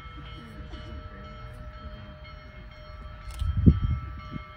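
A train running, a steady low rumble, with a brief much louder low burst about three and a half seconds in.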